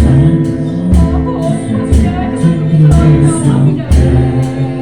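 Worship music with a steady drum beat, roughly one strong beat a second, and singing over it.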